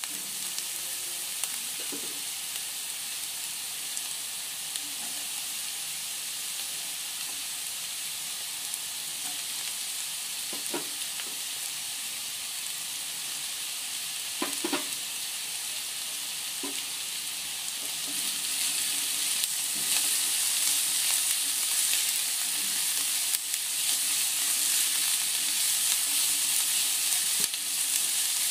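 Diced vegetables (onion, carrot, then tomato and bell peppers) sizzling in hot oil in a non-stick wok as a silicone spatula stirs them. There are a few light knocks of the spatula near the middle, and the sizzle grows louder about two-thirds of the way through.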